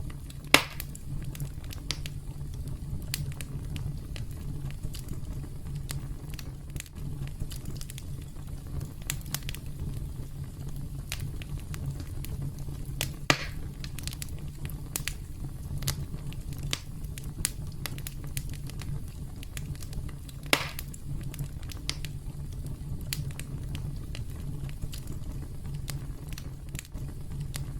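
Campfire burning with a steady low rumble and continual crackling, with three louder pops: one right at the start, one about halfway through and one about two-thirds of the way in.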